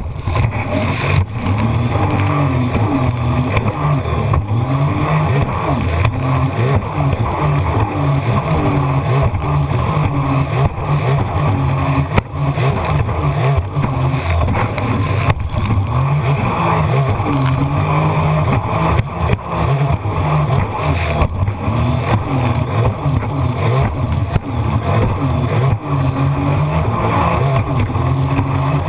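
Jet ski engine running hard, its pitch rising and falling again and again with the throttle, over a steady rush of water and wind. About twelve seconds in the level dips briefly.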